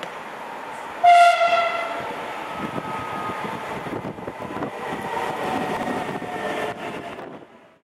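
Belgian SNCB electric multiple unit sounding one sharp horn blast about a second in, its tone trailing away over the next two seconds. The train then runs through the station with a steady rumble and clicking wheels, fading out near the end.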